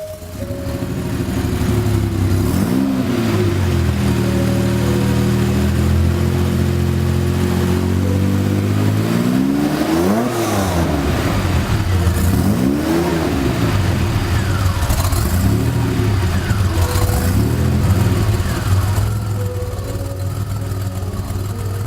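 DeLorean DMC-12's Stage II-tuned PRV V6 engine idling while the throttle is blipped several times, each rev rising and falling back; the biggest rev is about ten seconds in, and it settles to idle near the end.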